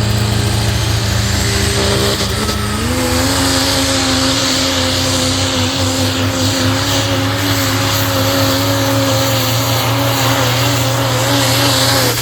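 Pro Stock 4x4 diesel pulling truck's engine running hard under load, its pitch climbing once about two and a half seconds in and then holding steady, with a loud hiss above it.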